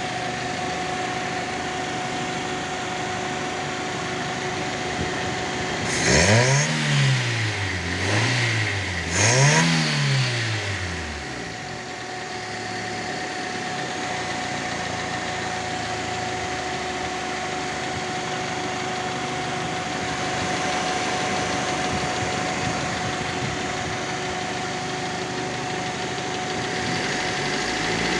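Freshly fitted replacement engine in a Fiat Punto idling, then revved twice in quick succession about six seconds in, its pitch rising and falling with each blip before it settles back to a steady idle.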